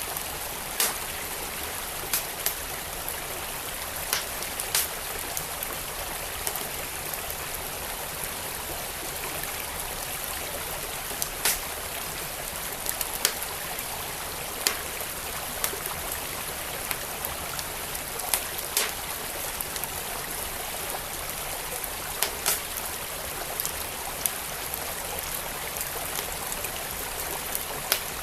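Wood fire crackling, with sharp irregular pops every second or two, over the steady rush of a flowing stream.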